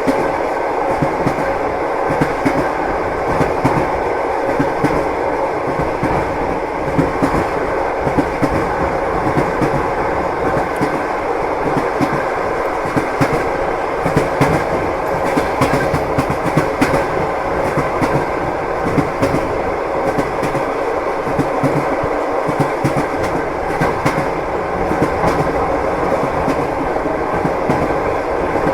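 Train wheels clattering over the rails in a steady rumble with frequent small knocks, heard from inside a moving passenger car.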